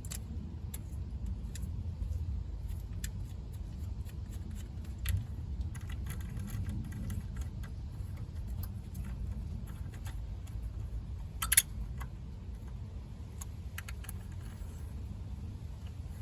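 Nissan Almera N16 engine idling steadily, with scattered light clicks and one sharper click a little past the middle.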